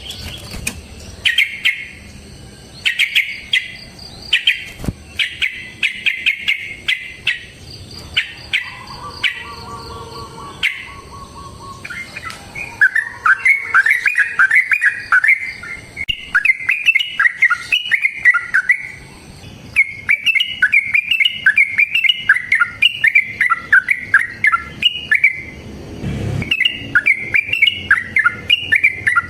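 Yellow-vented bulbul (trucukan) singing. For the first twelve seconds it gives short bubbly bursts of notes separated by pauses; from about twelve seconds in it breaks into a long, unbroken run of rapid warbling phrases, the drawn-out 'ropel' song. A brief low thud sounds near the end.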